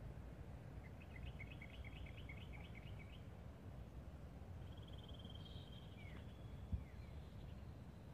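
Faint birdsong over a low steady background rumble: a rapid trill of high repeated notes about a second in, lasting about two seconds, another shorter trill around five seconds, and a couple of short falling calls. A single sharp knock near the end is the loudest sound.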